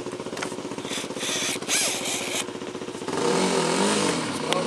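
Dirt bike engine idling with a steady pulsing beat, then revving up and down for a second or so about three seconds in. Short bursts of hiss come about a second in.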